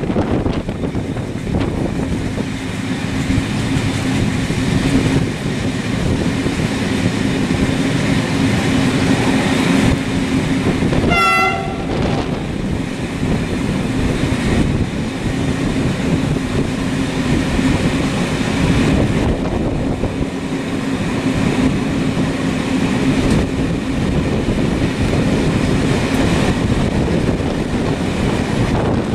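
Steady rumble of a moving train with a constant low hum, and a brief pitched horn-like tone about eleven seconds in.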